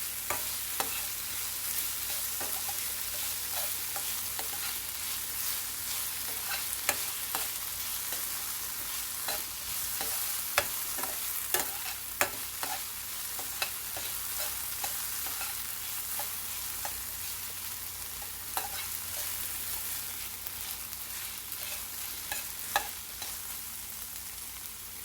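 Onions and tomatoes frying and sizzling in oil in a pan while being stirred, with frequent sharp clicks and scrapes of the utensil against the pan.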